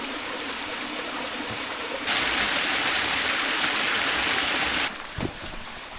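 Mountain stream running with a steady rush of water. About two seconds in the rush turns abruptly louder and brighter, then drops back just as suddenly about five seconds in.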